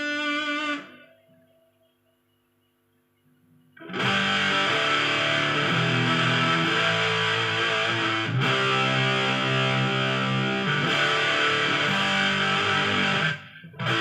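Electric guitar played through an MXR Sub Machine fuzz pedal, heavily distorted. A note rings out and dies away, a pause follows, then from about four seconds in come loud, sustained fuzzed chords with a strong low end, with a short break near the end.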